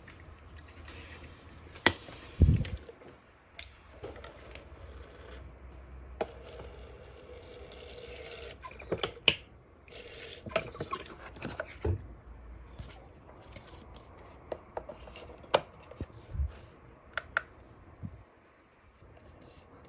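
Water trickling and dripping, with scattered sharp clicks and knocks throughout.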